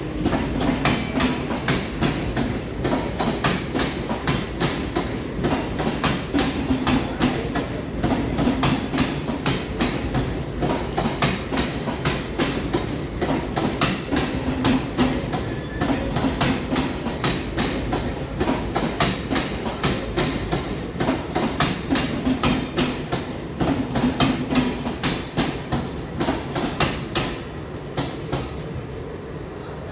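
Mumbai suburban local train running, its wheels clattering rapidly over rail joints above a steady low rumble. The clatter eases off near the end.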